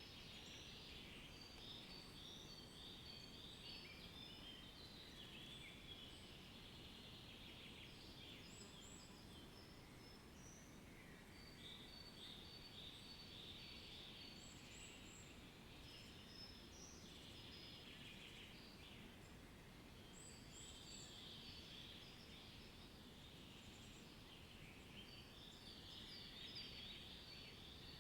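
Faint birdsong: many short, overlapping high chirps and trills from several birds, coming in bunches throughout, over a low, steady background hiss.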